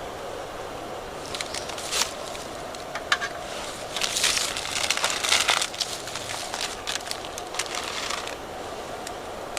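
Crunching, snapping handling noises, busiest about four to six seconds in, over a steady background hiss.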